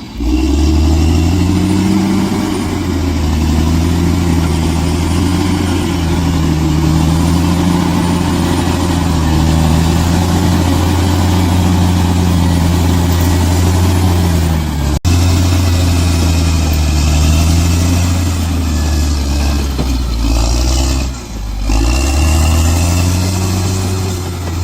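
Bulldozer's diesel engine running loud and steady under load, its pitch wavering up and down. There is a sudden momentary break about two-thirds of the way through and a short drop in engine note a little later.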